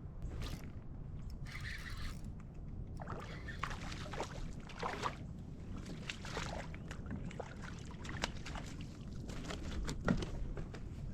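Water sloshing and splashing around a kayak in irregular bursts, over a steady low rumble of wind on the microphone.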